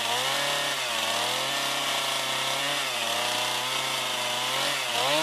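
New two-stroke chainsaw running at high revs on its first outing, its engine pitch dipping briefly about a second in and again about three seconds in, then climbing near the end.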